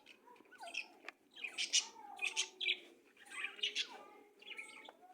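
Small birds chirping in short clusters of quick, high calls, repeated about once a second.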